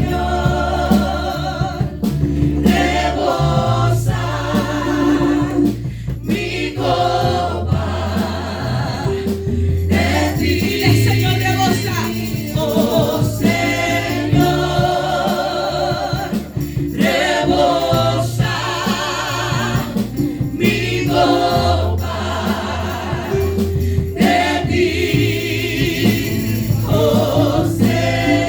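Live Spanish-language worship music: a group of singers over a band with steady bass chords that change every couple of seconds.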